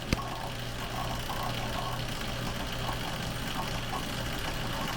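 Frigidaire dishwasher running its wash cycle, the pump motor giving a steady hum, with one sharp click just after the start.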